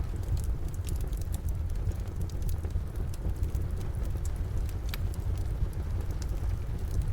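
Wood fire crackling in a fireplace, with scattered sharp pops and snaps over a steady low rumble, and the even hiss of steady rain outside.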